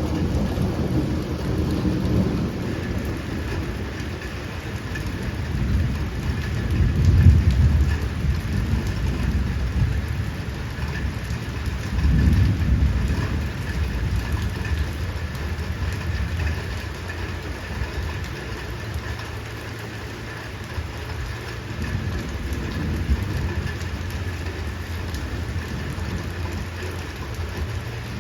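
Heavy rain falling steadily, with low rolls of thunder swelling up about seven and twelve seconds in.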